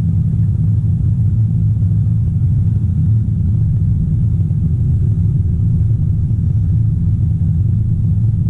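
Excavator's diesel engine running steadily under digging work, a low, even drone heard from inside the cab.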